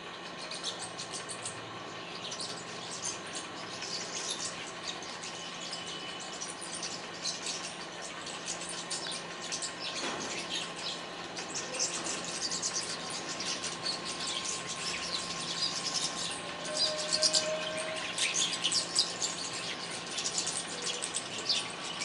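Birds chirping in a tree: many quick, high chirps and twitters, overlapping and getting busier about halfway through, over a faint steady hum.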